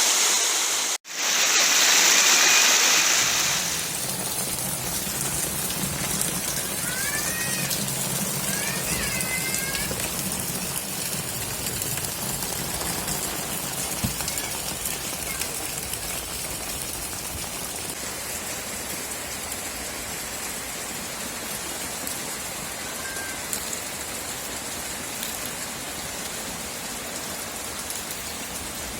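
Steady hiss of falling water. It is louder and brighter for the first few seconds, with a brief dropout about a second in, then settles lower. A few short chirps come about seven to ten seconds in.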